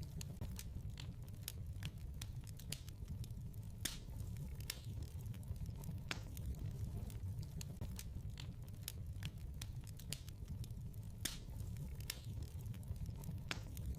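Wood fire in a fireplace crackling. There are irregular sharp pops and snaps, several a second, over a steady low rumble.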